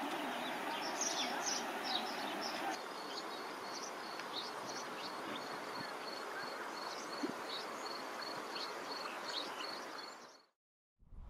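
Small birds chirping over a steady rushing background, with a rapid, evenly repeated high note joining about three seconds in. The sound fades out near the end.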